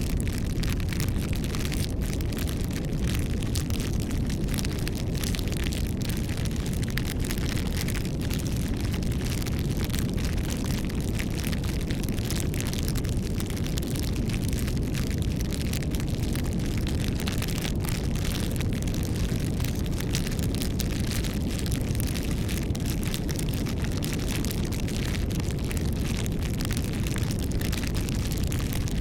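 Wood campfire burning: a steady low rush of flames with frequent small crackles and pops.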